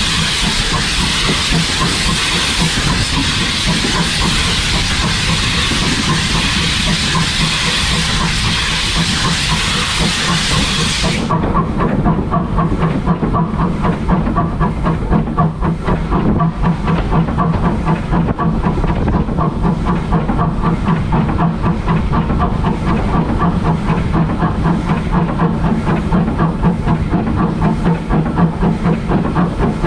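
Small steam locomotive hissing loudly and steadily with escaping steam. About eleven seconds in, the sound switches abruptly to the locomotive running along, a rhythmic beat over a steady low hum.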